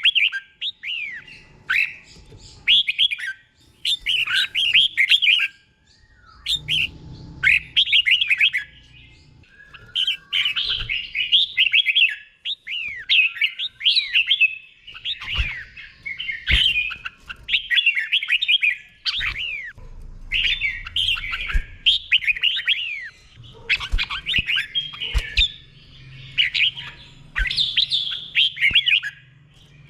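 Red-whiskered bulbul singing short, bright warbled phrases one after another, in the doubled 'เบิ้ล' style prized in Thai bulbul song contests. A few sharp clicks and a faint low hum can be heard underneath.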